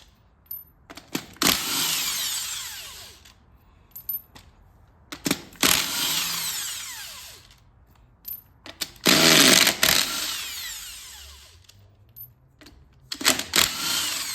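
Impact wrench run in four short bursts, each starting sharply and winding down with a falling whine, spinning out the axle shaft flange bolts on a Sterling 10.5 rear axle.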